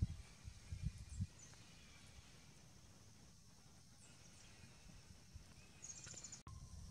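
Faint outdoor ambience with a few short, high bird chirps and, about six seconds in, a quick high chattering trill; a few low thumps sound in the first second or so.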